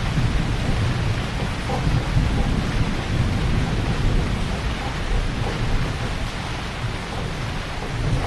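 Heavy rain falling steadily, over a deep low rumble that swells through the first half and eases off later.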